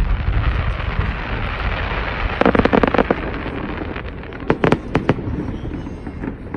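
Fireworks display: aerial shells bursting over a continuous crackle and low rumble. A rapid flurry of crackling pops comes about two and a half seconds in, and several sharp bangs follow around the five-second mark.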